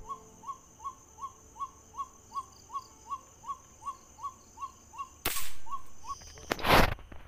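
A night bird repeats one short note evenly, about three times a second, some sixteen times over. Near the end two loud bursts of noise cover it, each under a second long.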